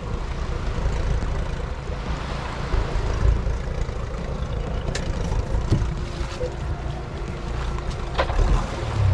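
Small boat's motor running, with wind buffeting the microphone and a few light knocks.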